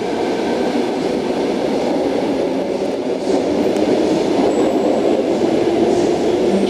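Eight-car Sydney Trains Tangara electric train, sets T24 and T5, departing an underground platform, its wheels and motors running steadily on the track and growing slightly louder partway through.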